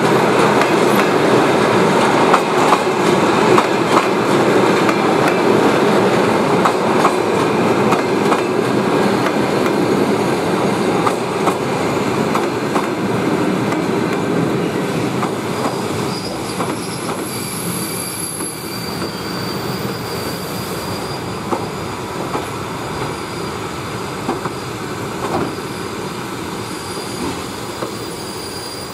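Passenger coaches rolling past on the rails as the train slows on arrival, the wheels clicking over the rail joints. High-pitched wheel squeals set in about halfway through, while the rolling noise gradually fades.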